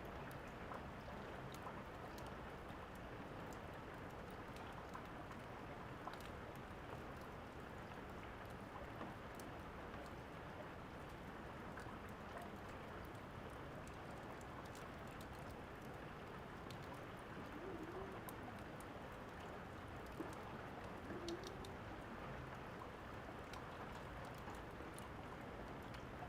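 Steady rain falling, with scattered small crackles and pops of a wood fire over it. A couple of faint low coos, like a dove's, come about two-thirds of the way in.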